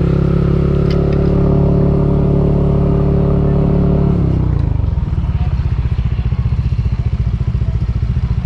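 Yamaha NMAX scooter's single-cylinder engine running at a steady speed, then dropping to a pulsing idle about four seconds in.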